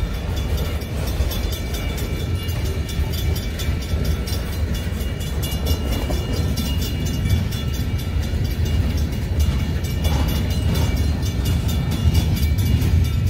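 Freight train of loaded boxcars rolling slowly past, a steady low rumble of wheels on rail. Over it, the grade-crossing signal's old-style bell rings on and on in rapid, even strokes.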